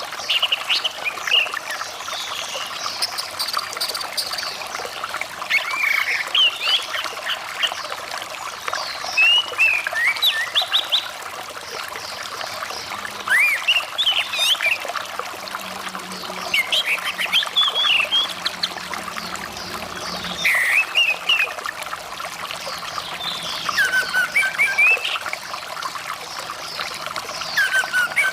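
Orange-headed thrush (anis merah) song: short clusters of quick rising and falling whistles every few seconds, over the steady rush of flowing water.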